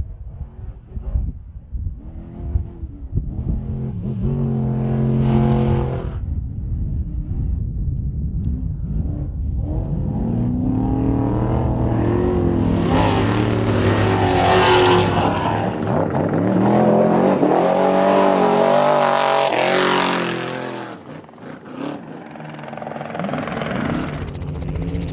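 Off-road racing trucks' engines revving hard and running past, their pitch repeatedly rising and falling. The loudest stretch is in the middle, with a short lull near the end.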